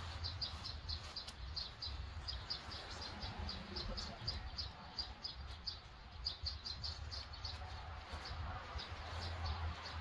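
A small songbird chirping repeatedly in runs of short high notes, about four a second, over a low steady rumble.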